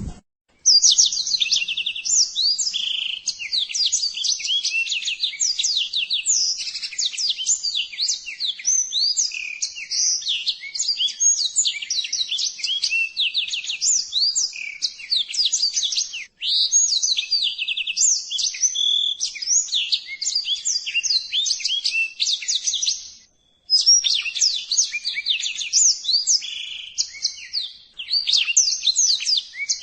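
Pleci (white-eye) song: a fast, unbroken run of high twittering chirps and trills, with a brief silent break about three quarters of the way through.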